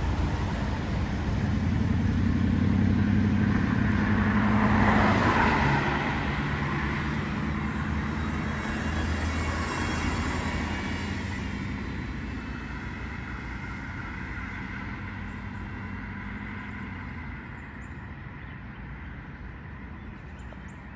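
Kenworth T880 dump truck's diesel engine pulling hard, rising in pitch and getting louder to its loudest about five seconds in, dropping in pitch just after, then fading steadily as the truck drives away.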